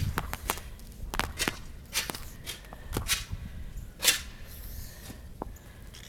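Footsteps crunching on icy, crusted snow: irregular sharp crunches, some louder than others.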